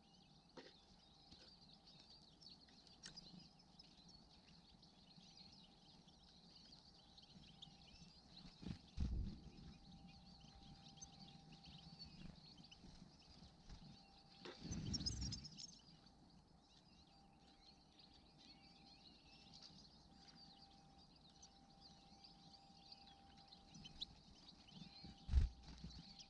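Faint, continuous high twittering of small songbirds, with a few dull low thumps, about 9 and 15 seconds in and twice near the end.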